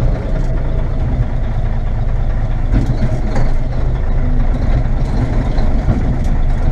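Mack B61 dump truck's diesel engine running steadily at low speed in low gear, with a few light rattles.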